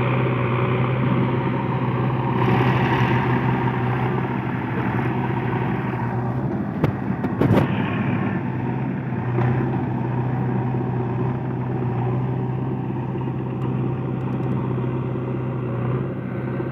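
Heavy diesel engine of earth-moving machinery running steadily, with a short dip in its hum and a few sharp knocks about seven seconds in.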